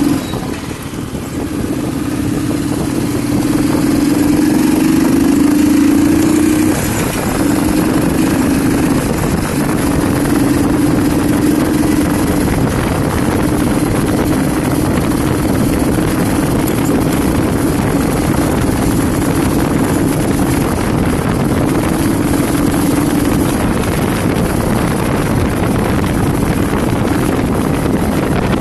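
Royal Enfield Thunderbird 350X's single-cylinder engine running as the motorcycle is ridden, over a steady rush of wind and road noise. The engine note climbs over the first several seconds, drops about seven seconds in as a gear is changed, and then holds steady.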